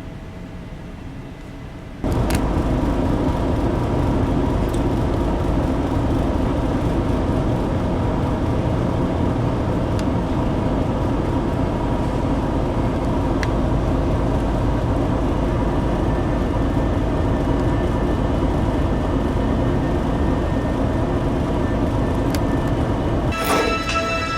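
Car ferry's engines and onboard machinery running, a loud steady low drone with a few constant hums on top; it jumps up suddenly about two seconds in. Near the end a click and a burst of music with chiming tones come in.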